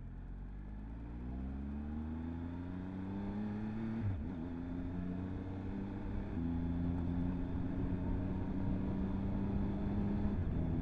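Motorcycle engine heard from on the bike, pulling up through the revs with a rising pitch. There is a short break for a gear change about four seconds in, then it runs on steadily and a little louder, and the revs drop near the end.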